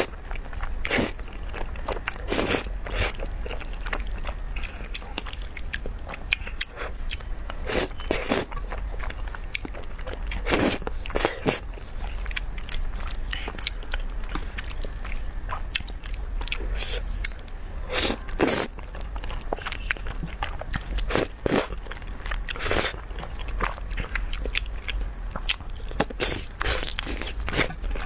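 Close-miked eating sounds of someone chewing and biting malatang: irregular short mouth clicks and crunches.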